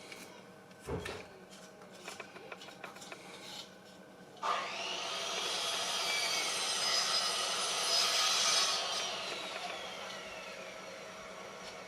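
A tool cutting or abrading material for the meter's replacement screen glass: a sustained rasping sound that starts abruptly about halfway through and tapers off near the end. Before it come light clicks and a knock about a second in.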